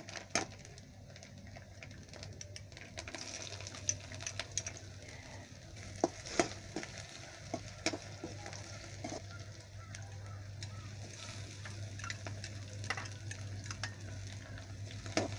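Sliced ginger, garlic and coconut pieces sizzling in hot coconut oil in a heavy-bottomed wok, stirred with a metal spatula that scrapes and clicks against the pan now and then. A steady low hum runs underneath.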